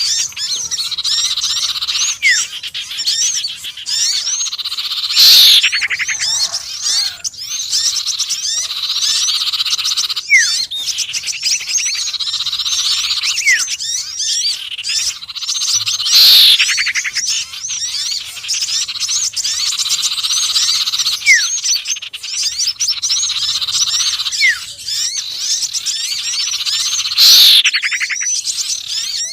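Bird-lure recording: a dense, continuous chatter of small-bird chirps, with a loud falling whistle about every eleven seconds and short upward-sweeping notes in between. It is a looped mix of sirtu, konin and sepah raja calls, played to draw in small birds.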